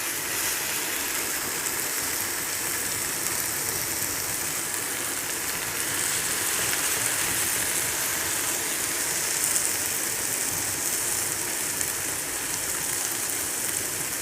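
Marinated chicken pieces sizzling steadily in hot butter in a non-stick frying pan, an even hiss that swells slightly about halfway through.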